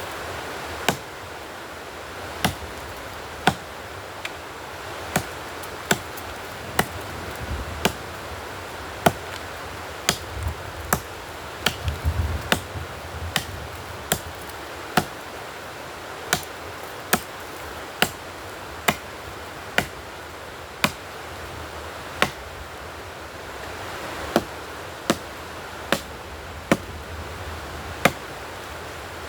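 Wood being chopped with a hand-held blade: sharp, evenly paced strokes about one a second, with a few heavier, duller blows near the middle, over a steady hiss.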